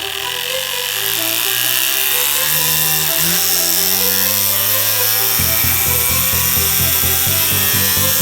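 LEGO piston engine driven by a 24 V drill motor spinning up, its whine rising steadily in pitch over background music. About five seconds in, a steady pulsing beat starts.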